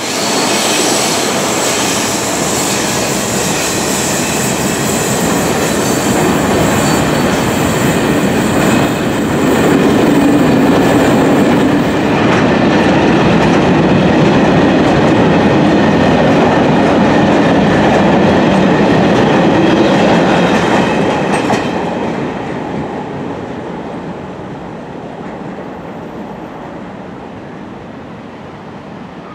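Container freight train hauled by three VR Dv12 diesel-hydraulic locomotives rolling past, its wagons' wheels running steadily on the rails. The sound is loudest through the middle and fades over the last several seconds as the train moves away.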